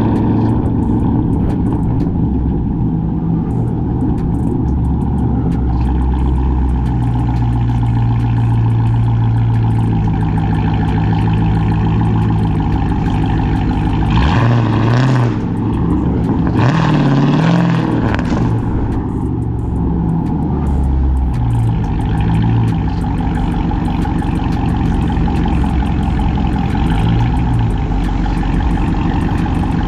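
Cammed, catless, straight-piped Chrysler 300C Hemi V8 exhaust while driving, a steady loud rumble that shifts in pitch, with two short louder, harsher stretches about halfway through.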